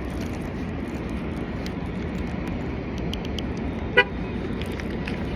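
A single short car-horn toot about four seconds in, over a steady low rumble of vehicle and traffic noise.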